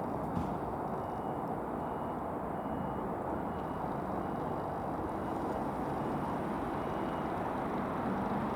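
A train running, a steady rumbling noise, with a faint short high beep repeating about twice a second through most of it.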